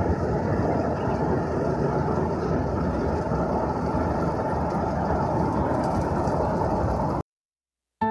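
Steady noise of a train running, cutting off suddenly about seven seconds in.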